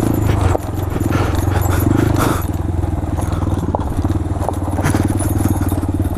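Motorcycle engine running at a steady, moderate speed while riding a dirt trail, with scattered clicks and knocks from the bike rattling over rough ground.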